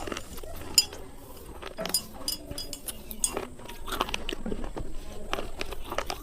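Slate pencils being bitten and chewed: irregular sharp crunches with some light clinks.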